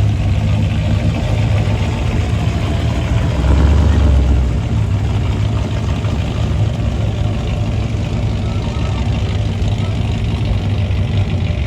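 Car engines idling and moving at parade pace, a steady low engine hum, with a louder low rumble for about a second around four seconds in.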